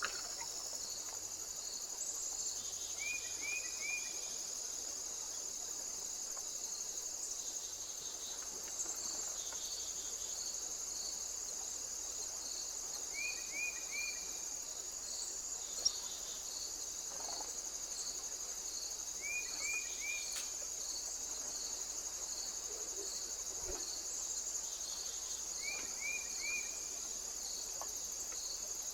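Steady, high-pitched chorus of crickets with an even pulsing beneath it. A short three-note chirp repeats every five or six seconds, and a single sharp click comes just past the middle.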